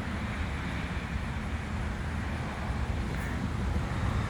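Steady low rumble and hiss of road traffic, growing slightly louder near the end.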